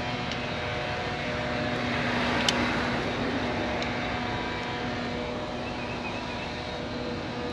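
Steady machine hum with a rushing noise that swells to a peak a couple of seconds in and slowly fades, and a single sharp click near the peak.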